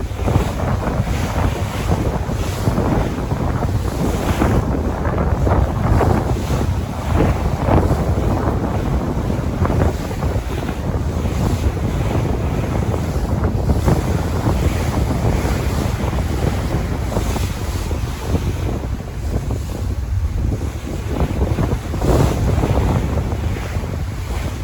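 Sea waves washing and breaking, in irregular surges, with wind rumbling on the microphone.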